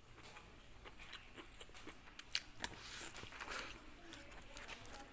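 Close-up eating sounds from a bowl of sundubu jjigae (soft tofu stew): chewing, with several sharp clicks scattered through, the loudest a little over two seconds in.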